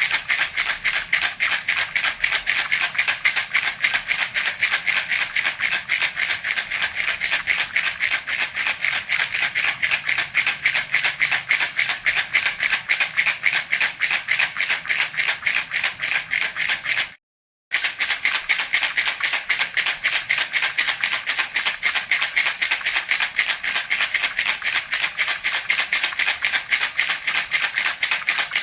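Baby rattle (jhunjhuna) shaken continuously in a fast, even rhythm, giving a bright, high rattle. It stops for about half a second roughly two-thirds of the way through, then resumes.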